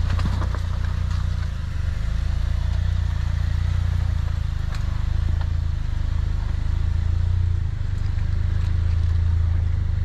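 Jeep Wrangler's engine running, a steady low drone that dips briefly about two seconds in and again near eight seconds, with a few faint ticks of clatter.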